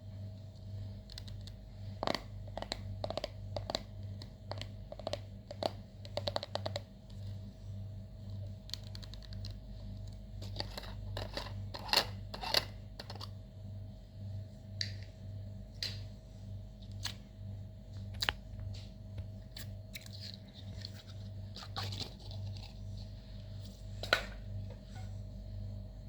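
Slime being mixed and worked by hand, giving irregular sharp clicks and pops, some in quick clusters, over a steady low hum.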